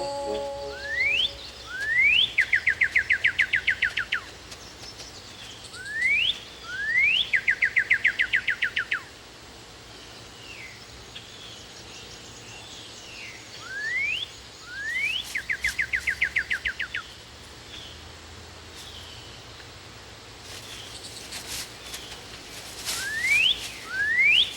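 A songbird singing the same phrase over and over, about every six to eight seconds: two quick rising whistles followed by a fast trill of about a dozen notes. A few faint clicks come in the second half.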